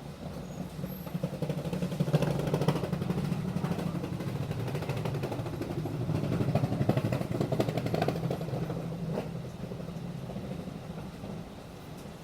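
Inside a Nishitetsu city bus under way: the engine runs with a steady low drone and interior rattles, growing louder about two seconds in and easing off again near the end.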